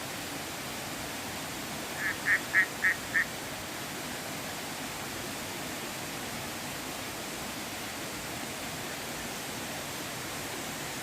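Steady rush of a river or stream, with a quick run of five short calls from an animal about two seconds in.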